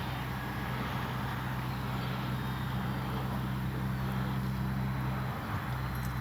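Electric motor and propeller of an RC Cessna 182 model in flight, a faint whine drifting in pitch as the plane passes. Under it are a steady low hum and a wash of wind noise.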